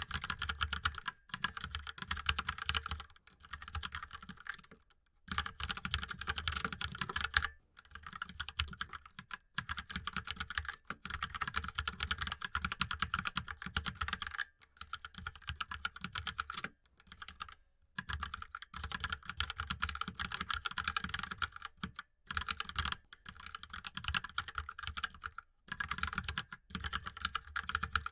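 Fast, continuous typing on a mechanical keyboard: dense runs of key clicks broken by short pauses every second or few.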